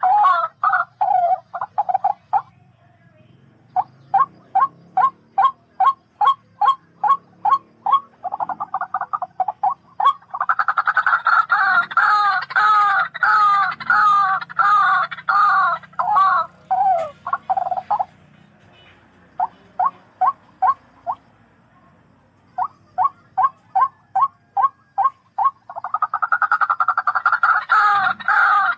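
Barred rail (tikling) calling: bouts of short repeated notes, about two to three a second, that quicken into fast runs of downward-sweeping notes, broken by two brief pauses.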